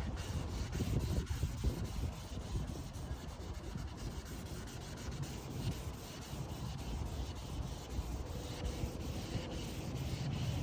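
1000-grit sandpaper wet-sanding a car's plastic headlight lens by hand, a continuous rubbing that wavers in loudness as the old clear coat is stripped off.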